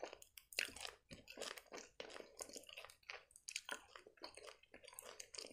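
Close-miked chewing of a mouthful of gummy candy: a faint, irregular run of short, wet mouth clicks and squelches.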